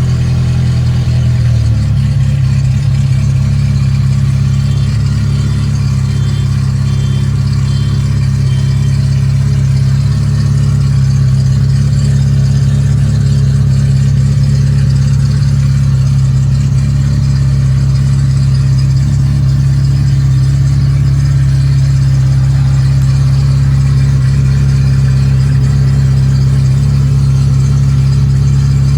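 1986 Ferrari Mondial 3.2's 3.2-litre V8 idling steadily after a cold start, its pitch stepping up slightly about two seconds in.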